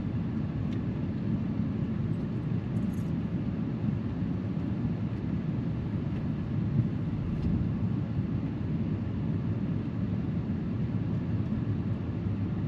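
Steady low rumble inside a car's cabin, with no distinct events apart from a small knock about seven seconds in.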